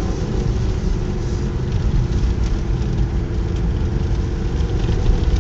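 Subaru car engine running steadily under load with low road rumble, heard from inside the cabin; its note edges up slightly near the end.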